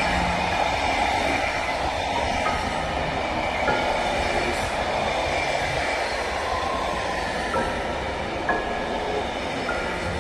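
SNCB passenger train rolling past, a steady rumble and rushing noise of wheels on rails that eases slightly as it goes, with brief faint high tones scattered through it.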